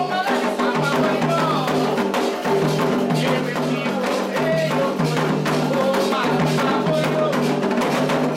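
Candomblé toque: atabaque hand drums beaten in a fast, steady rhythm with a struck bell or wood-like percussion, under sung chanting.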